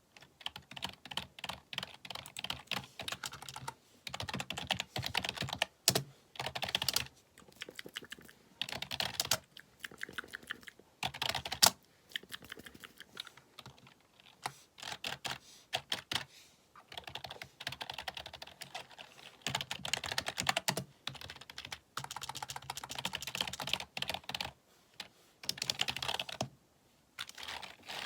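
Fast typing on a computer keyboard, key strikes clattering in runs of a second or two with short pauses between them. A few single keys land harder than the rest.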